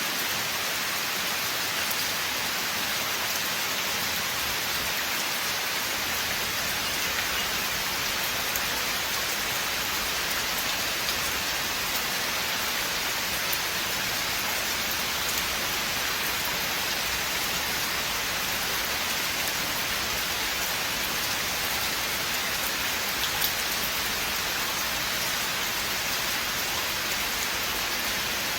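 Steady rain falling in a forest, an even hiss of rainfall with scattered individual drops ticking on surfaces.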